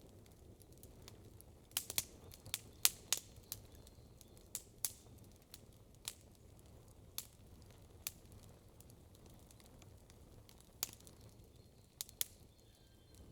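Wood campfire crackling: sharp, irregular pops and snaps over a low steady hiss, a quick cluster of pops about two seconds in, then sparser single ones.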